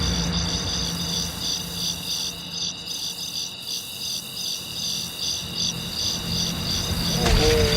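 Crickets chirping in a steady, even pulse, the stock sound effect used for an awkward silence. A low rumble dies away over the first few seconds, and near the end louder sounds with a held, wavering tone come in.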